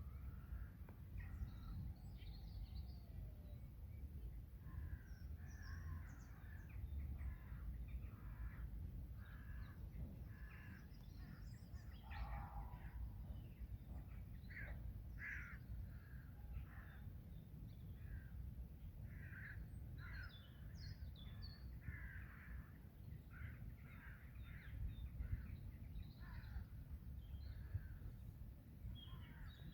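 Birds calling around a pond: a long run of short, repeated calls, thickest in the middle stretch, with higher chirps from small birds over a steady low background rumble.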